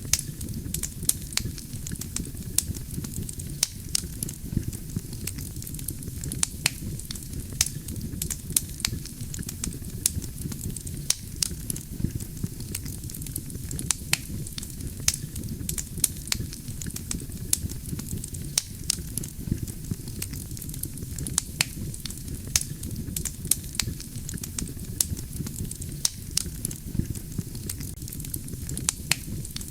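Wood fire burning steadily: a low rumble of flames with frequent sharp crackles and pops of burning logs, scattered irregularly several times a second.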